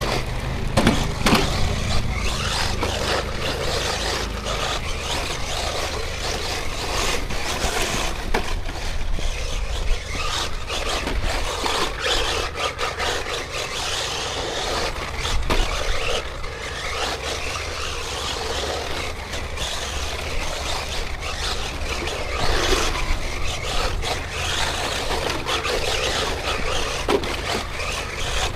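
Radio-controlled rally car driving over a dirt forest track. Its tyres and chassis make a continuous rough noise over the ground, with frequent knocks and scrapes from stones and bumps.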